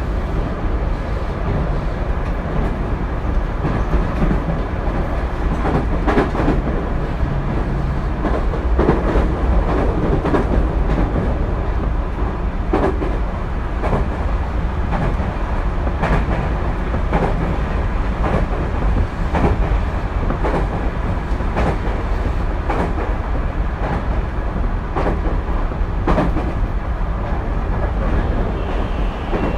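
Tokyu 2020 series electric train running at speed, heard from inside the car: a steady rumble of wheels on rail with a clack from rail joints every second or two.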